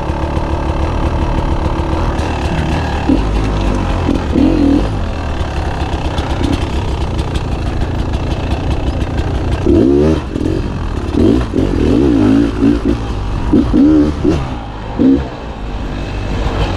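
Beta 300 two-stroke dirt bike engine running steadily, then revved up and down in repeated bursts over the last several seconds.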